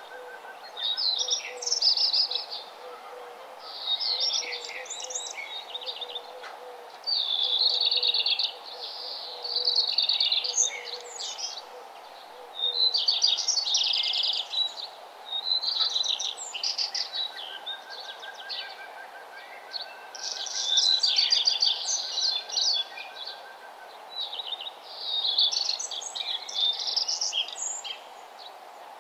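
Songbirds singing: short, quick twittering phrases high in pitch, repeating every couple of seconds with brief pauses between.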